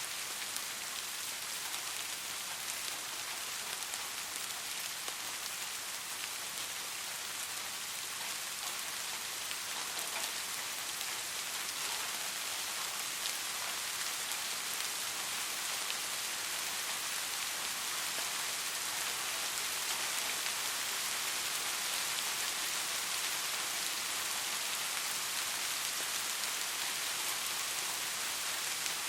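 Soft rain falling steadily: an even hiss of rainfall flecked with the small ticks of individual drops, growing slightly louder toward the end.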